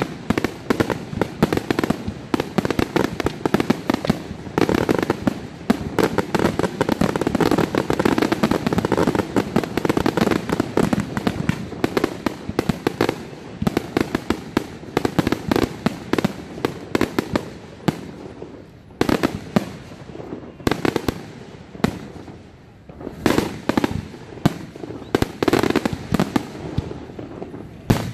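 Aerial fireworks display: rapid, overlapping bangs and crackling from bursting shells, thinning out to separate bangs in the latter part.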